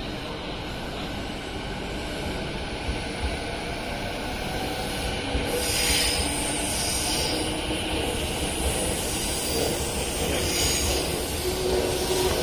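Yokosuka Line E217-series electric train pulling away and gathering speed, its wheels running on the rails, growing steadily louder. High-pitched wheel squeal comes in about halfway through and again near the end.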